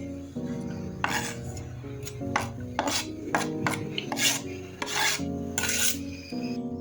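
A series of short rasping scrapes, about seven strokes at an uneven pace, with soft background music underneath.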